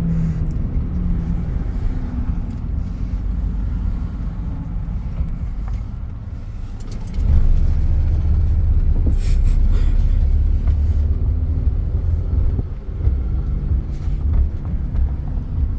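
Car cabin noise from a car on the move: steady low road and engine rumble mixed with wind buffeting through an open window. It gets louder about seven seconds in.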